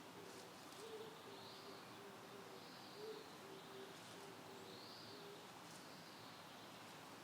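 Faint, repeated low cooing of a dove, a phrase of one higher note followed by several lower ones, coming about every two seconds, with faint thin high bird calls over it.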